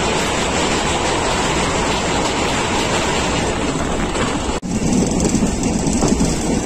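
Moving passenger train heard through an open coach window, its wheels running loud and steady over a steel truss bridge. After a brief break in the sound about four and a half seconds in, the running noise goes on deeper, with less hiss.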